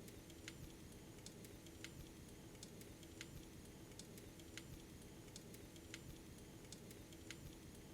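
Faint wood fire crackling: sharp pops at irregular intervals, about one a second, over a low steady hum.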